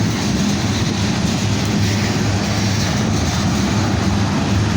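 Loaded tank cars of a freight train rolling past, a steady noise of steel wheels on rail with a low hum underneath.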